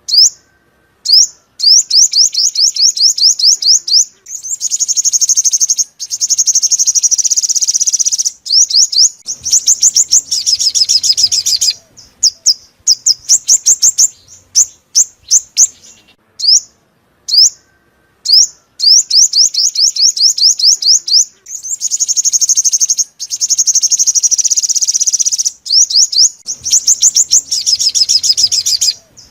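Sunbird song: loud, high-pitched chirps repeated rapidly in trilled runs of a few seconds each, with short pauses between runs. This is a song recording used as a lure to call wild sunbirds.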